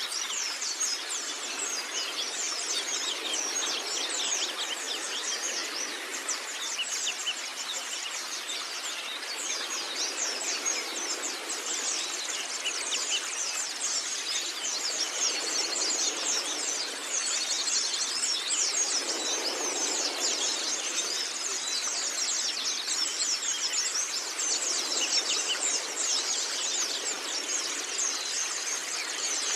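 White-eye (pleci) singing a continuous, rapid twittering song of high, quick chirps with no pauses.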